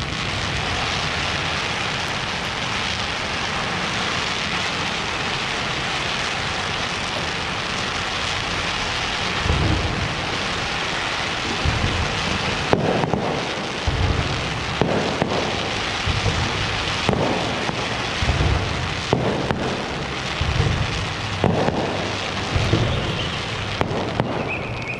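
Aerial fireworks display: a dense, continuous crackling of fireworks throughout. From about ten seconds in, deep booms of shells come roughly once a second.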